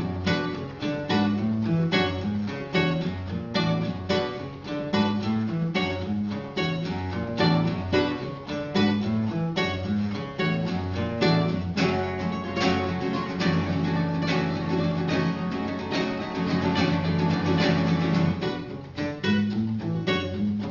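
Instrumental acoustic guitar music: plucked notes in a steady rhythm, thickening into fuller, sustained strumming for several seconds past the middle.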